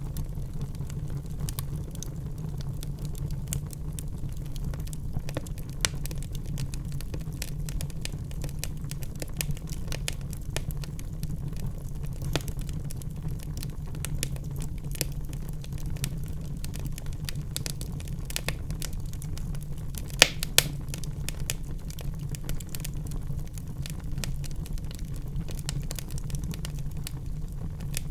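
Wood fire crackling in a fireplace: a steady low rumble under frequent small crackles, with two louder pops in quick succession about twenty seconds in.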